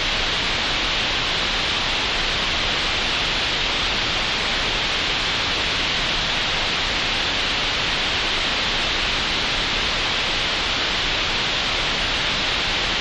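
Synthetic green noise generated in Audacity: a steady, unchanging hiss with no rhythm or variation.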